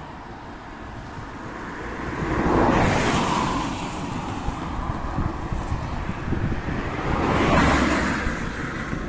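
Two vehicles passing on a road one after the other, each a whoosh of tyre and engine noise that swells and fades, the first about three seconds in and the second near the end, with a low rumble between them.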